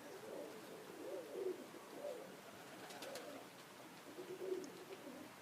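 Faint pigeon cooing, a run of repeated low curving coos, with a few faint clicks about three seconds in.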